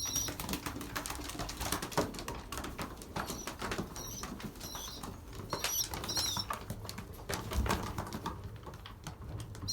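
Young racing pigeons, about 30 days old, giving several high, thin squeaks, over many small clicks and taps as the birds peck at the feeding trays.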